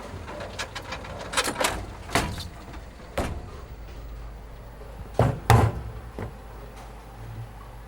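A series of sharp knocks and clatters, the loudest two close together about five seconds in, over a steady low hum.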